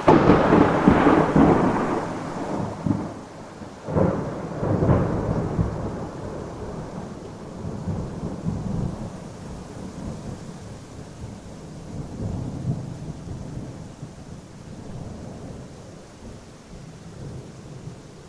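A thunderclap: a sudden loud crack right at the start, two more peals about four and five seconds in, then a long low rumble that slowly dies away. Steady rain hisses underneath.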